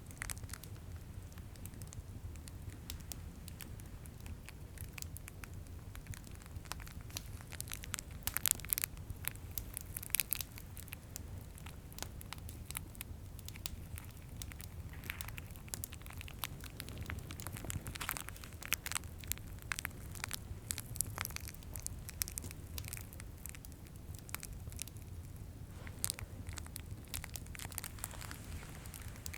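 Plastic candy cane wrappers crinkled by hand in bunches of sharp crackles, over the steady crackle and low rumble of a fireplace.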